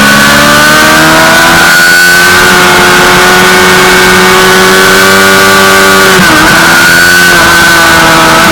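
Suzuki GSX-R600's inline-four engine running hard at high revs. Its pitch climbs, holds, and dips sharply about six seconds in before picking up again, over a steady rush of noise.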